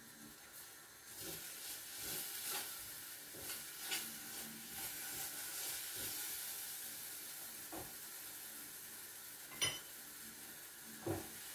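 Banana pancake batter frying in hot sesame oil in a pot. The sizzle starts about a second in and slowly dies down. Near the end come two sharp clicks of a utensil against the pot.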